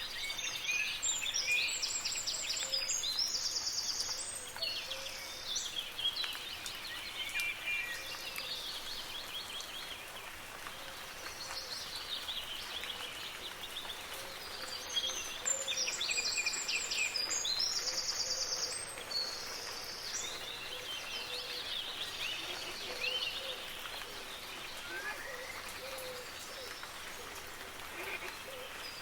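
Several birds singing over a steady patter of soft rain. Dense bursts of fast, repeated song phrases come twice, about 15 seconds apart, with scattered quieter chirps between them.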